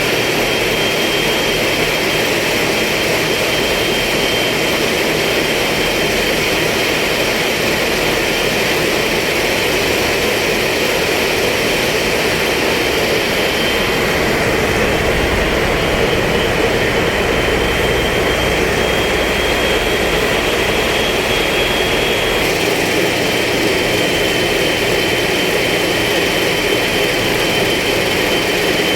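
Heavy marine diesel machinery running steadily and loudly, with a constant high-pitched whine over it. The low rumble grows heavier about halfway through, then eases suddenly a few seconds later, as if the engine load changes.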